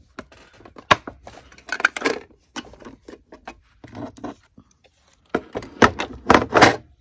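Paper and craft supplies being handled on a work table: irregular rustling, scraping and clicking, with a sharp click about a second in and a busier stretch of rustling near the end.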